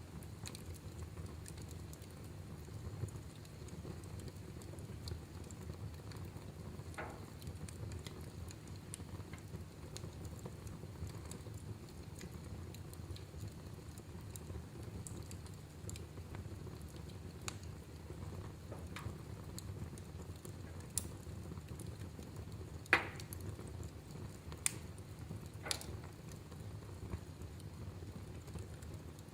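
Wood fire burning in a fireplace: a steady low rumble with scattered crackles and pops, a few sharper pops coming close together in the last third.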